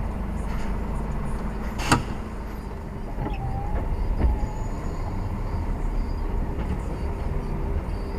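Lorry driving: steady low engine and road rumble, with one sharp click about two seconds in.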